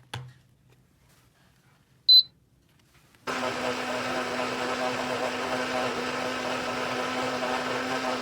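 A click, then a short high beep about two seconds in, then a small electric motor starts suddenly and runs steadily with a buzzing hum.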